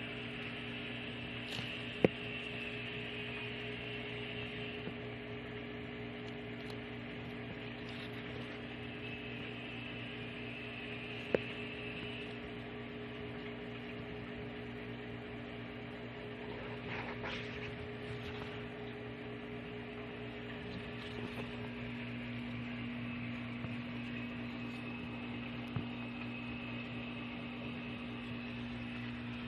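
Steady low electrical-sounding hum, with two sharp clicks, about 2 and 11 seconds in.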